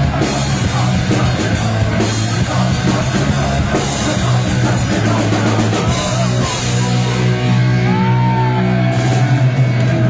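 Live thrash metal band playing a loud, fast song: distorted guitars, heavy bass and drums with crashing cymbals. About two-thirds of the way through the cymbals drop out under a held chord, then the drums crash back in near the end.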